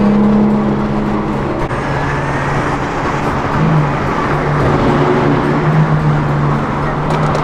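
Car engines running at a steady, low drone over road noise; the engine note drops to a lower pitch about two seconds in and holds there.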